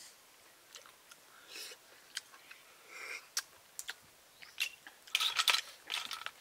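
A person eating cooked snails: scattered small clicks and short wet chewing noises, with the loudest burst of chewing about five seconds in.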